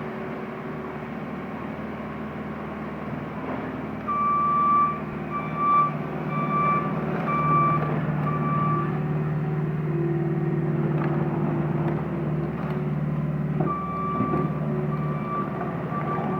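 JCB 260T compact track loader's diesel engine running steadily under work, with its reversing alarm sounding a repeated high beep in two spells, the first about four seconds in and the second near the end. A few knocks are heard between them.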